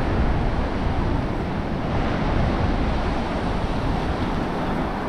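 Ocean surf washing onto the beach, a steady rushing wash, with wind buffeting the microphone and adding a low rumble.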